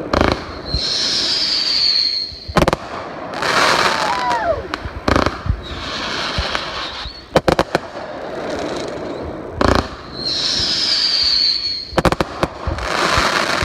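Fireworks going off: sharp bangs about every two seconds, with a quick cluster of bangs near the end. Between them are hissing and high whistles that fall slowly in pitch.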